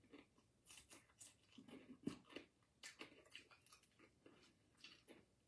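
Faint, irregular crunching and chewing of crispy fried whole red snapper, with pieces of the fish pulled apart by hand.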